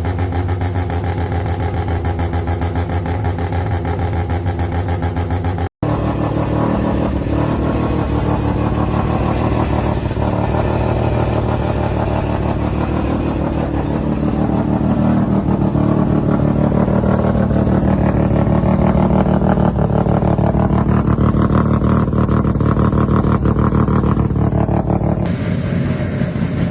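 Mazda 12A rotary engines running with a fast, choppy brap. A cut about six seconds in switches to a second engine, which picks up revs around the middle and holds them higher.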